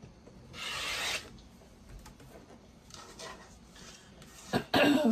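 Rotary cutter drawn along a ruler through a stack of quilting fabric: one raspy cut lasting under a second, about half a second in, then softer scraping and rustling of fabric and ruler around three seconds in, and a louder rustle near the end.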